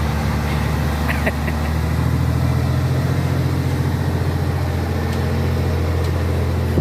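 Heavy truck's diesel engine running with a steady low drone that grows a little stronger about two seconds in.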